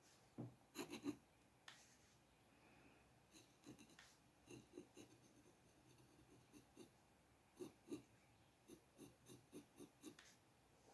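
Faint scratching of drawing strokes on paper: a series of short, irregular strokes, some in quick clusters.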